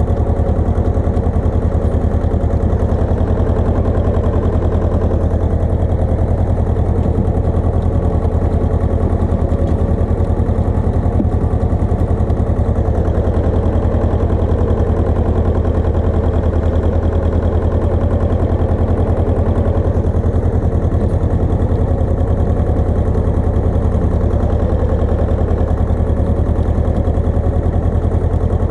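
Pasquali 980 EX tractor engine running steadily at a constant speed while driving a rotovator.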